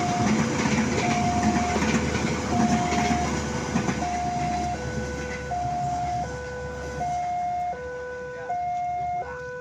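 Railway level-crossing warning alarm sounding a steady two-tone signal, alternating high and low about every 0.6 seconds. Underneath, the rumble of a passing train fades from about halfway through.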